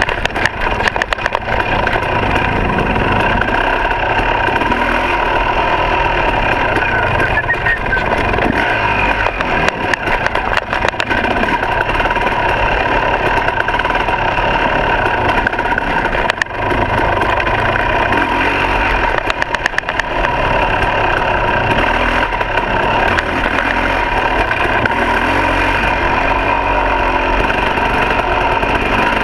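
Two-stroke dirt bike engine running steadily, with a few brief clicks and knocks over it.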